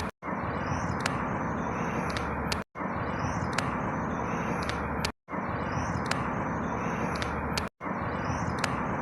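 Outdoor ambience: a steady rushing noise with faint high bird chirps over it. It is a short recording of about two and a half seconds looped over and over, with a brief silent gap at each repeat.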